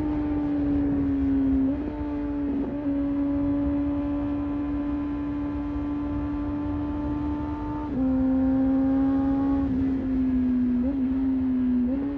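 Honda CBR600RR's inline-four engine running at a steady cruising pitch, with a low rush of wind beneath it. The revs step briefly a few times, around two seconds in and again at about eight seconds.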